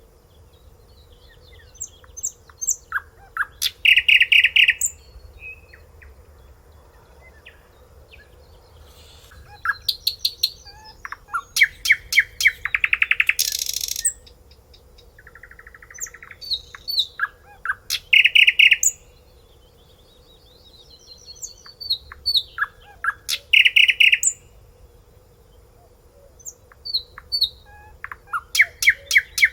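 A songbird singing loud phrases of a few seconds each, separated by short pauses. The phrases are made of rapid repeated notes, trills and rising whistles, with a faint steady hum beneath.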